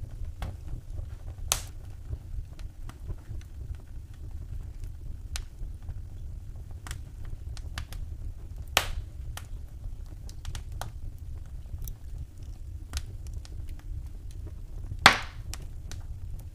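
Wood fire crackling in a fireplace: irregular sharp pops and snaps over a steady low rumble, with a louder pop a little before halfway and the loudest one near the end.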